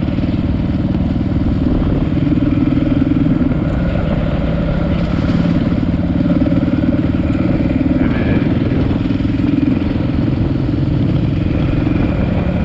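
Dirt bike engine running steadily while riding, its note rising and falling only a little.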